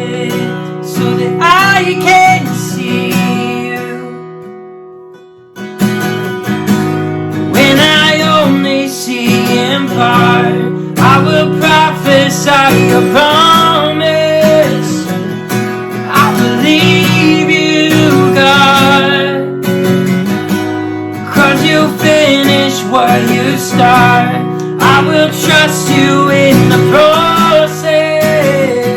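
Worship song performed on strummed acoustic guitar with a singing voice. The music fades away about four seconds in, then comes back abruptly at about five and a half seconds and carries on.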